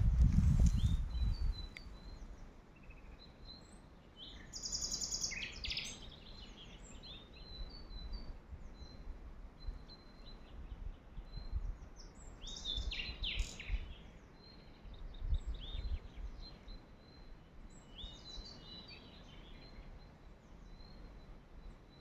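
Wild songbirds calling and singing in woodland in several short bursts of chirps, with a faint steady high tone underneath. A brief low rumble on the microphone is the loudest thing, in the first second.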